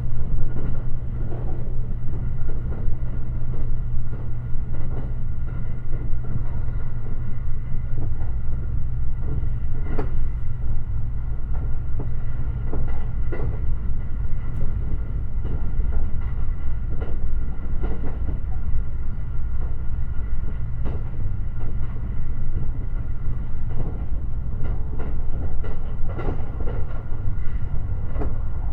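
Limited Express Shirasagi electric train running at speed, heard from on board: a steady low rumble with a faint steady hum above it and scattered sharp clicks and knocks from the wheels on the track.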